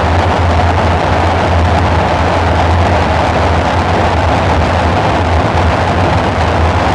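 Dark ambient synthesizer drone: a steady deep hum under a layer of hissing noise, unchanging throughout.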